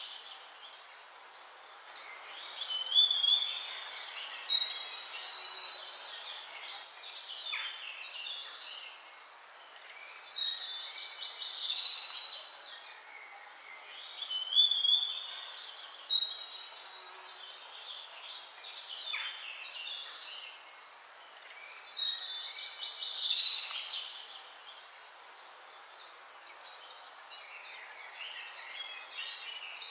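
Songbirds singing: short bursts of varied high chirps and warbles every few seconds, over a steady faint hiss.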